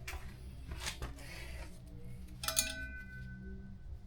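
Sharp metal clinks of tools and springs being handled on a motorcycle exhaust, three in all; the one about two and a half seconds in rings on briefly.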